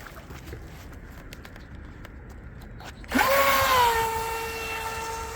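Eachine EBT04 brushless RC boat motor on a 3S battery: after about three seconds of faint background, a loud high whine starts suddenly, sweeps up in pitch, then holds steady and slowly fades.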